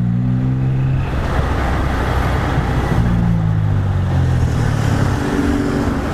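Motorcycle engine running while riding, its pitch falling and rising as the speed changes, over steady wind rush on the microphone.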